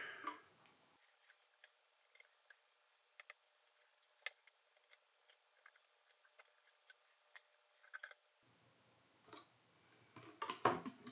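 Sparse, faint clicks and light taps from hands handling small camera parts.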